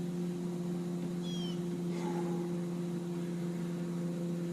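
A steady low droning hum, with a brief faint high chirp about a second in.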